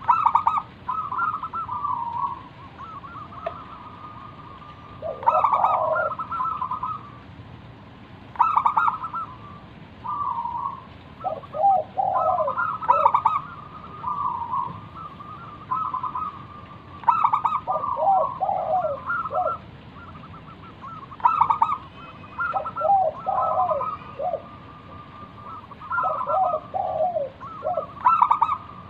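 Zebra dove (perkutut) singing its cooing song: stuttering, trilled coo phrases repeated every couple of seconds, some with lower notes and some with higher notes.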